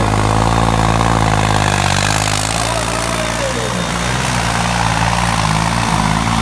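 Tractor's diesel engine idling steadily at low revs, over a general crowd and outdoor hum.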